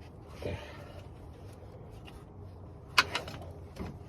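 A flathead screwdriver prying at a plastic radiator fan clip: a brief scrape early, then one sharp click about three seconds in followed by two lighter clicks.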